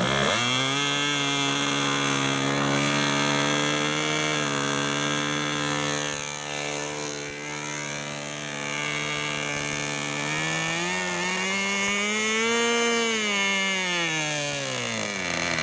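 Small two-stroke model aircraft engine with a tuned exhaust pipe, running flat out and driving its propeller. It starts abruptly and holds a steady note for about ten seconds, then its pitch rises, peaks and falls away near the end as the model climbs and passes.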